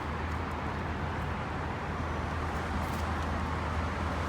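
Steady rumble and hiss of riding a rental electric scooter along a city street.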